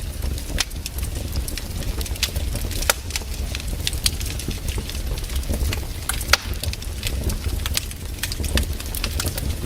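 Wood campfire burning, with irregular sharp crackles and pops over a low steady rumble.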